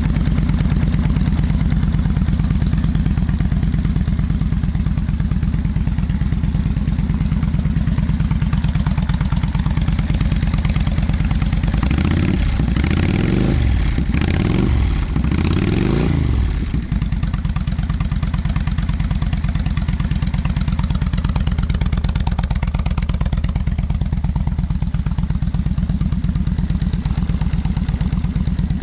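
Kawasaki VN1500 Vulcan Classic's V-twin engine idling loudly through a Cobra aftermarket exhaust, blipped three times in quick succession about midway, each rev rising and falling back to idle.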